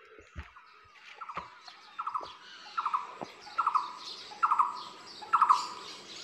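A forest bird repeating a short, rapid trilled note over and over, about once a second, each call louder than the last. A few light cracks and a soft thump of footsteps on the trail come in the first seconds.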